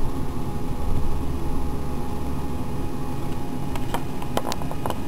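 Steady low mechanical hum, with a few sharp clicks near the end before the sound cuts off.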